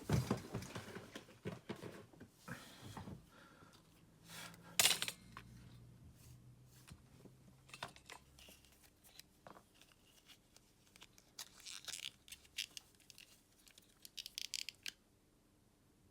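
Small plastic parts of a remote control being handled: irregular clicks, scrapes and rustles, with one louder snap about five seconds in and a run of quick clicks near the end before it goes quiet.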